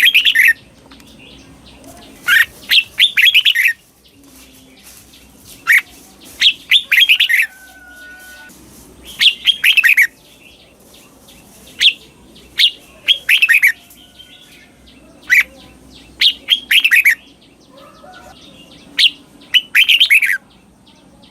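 Red-whiskered bulbul singing its short, loud song phrase again and again, about six times at intervals of three to four seconds. Each phrase is a quick run of sharp whistled notes.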